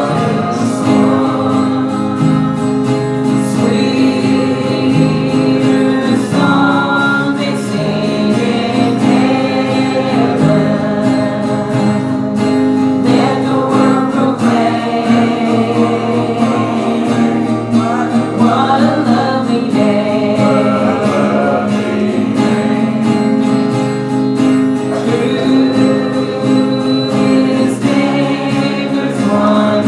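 Congregation singing a hymn in unison and parts, with an acoustic guitar strummed along.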